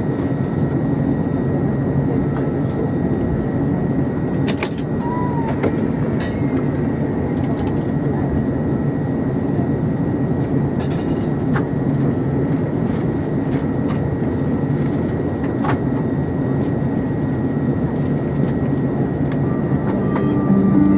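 Steady cabin noise inside an Airbus A320 on the ground: a low, even air rumble with a faint steady high whine, scattered clicks and knocks, and passenger chatter underneath.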